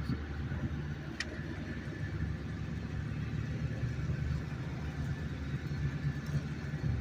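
A steady low engine rumble, with one brief sharp click about a second in.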